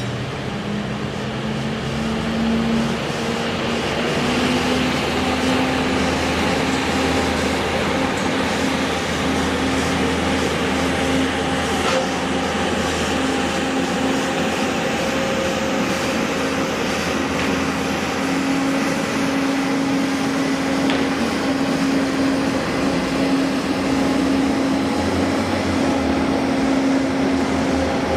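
Machinery running steadily, a continuous hum that rises a little in pitch over the first few seconds and then holds, over a steady rushing noise.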